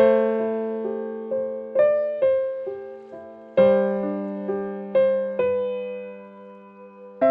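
Slow, gentle solo piano music: a sustained low chord struck about every three and a half seconds, with single melody notes above it about twice a second.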